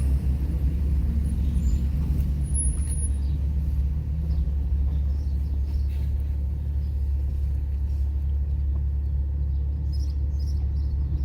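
Steady low rumble of a car running, with a faint engine hum over it and no break.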